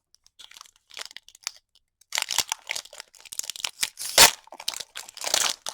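Plastic and foil packaging of a Pokémon card booster pack torn open and crinkled by hand, starting about two seconds in, with a loud sharp crack just after four seconds.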